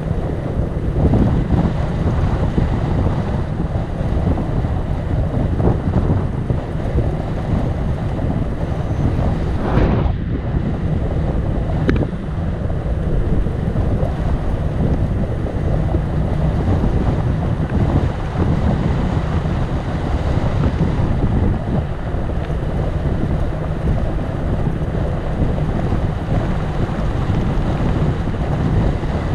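Wind buffeting the microphone of a moving bicycle rider, a steady low rumble of rushing noise, with a single click about twelve seconds in.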